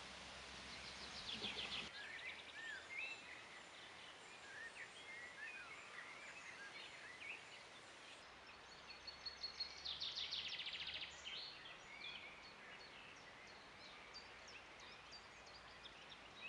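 Faint birdsong of several short chirps and whistles, with two fast trills, one near the start and one about two-thirds of the way through, over a light background hiss.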